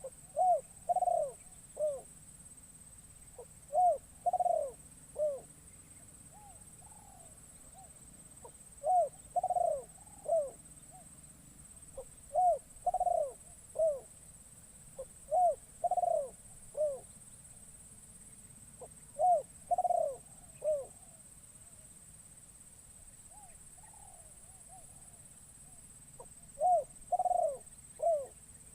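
A spotted dove (terkukur) cooing: phrases of three or four short coos, repeated every three to four seconds. It is a tame decoy bird calling to lure wild doves. A faint steady high whine runs underneath.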